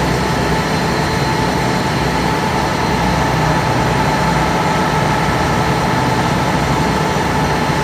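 Passenger ferry's engine running steadily, a constant low drone with a faint steady whine above it.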